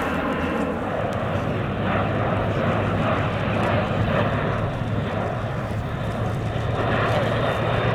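Airbus A400M Atlas's four turboprop engines running in flight, a steady drone with a low hum underneath that grows slightly louder near the end.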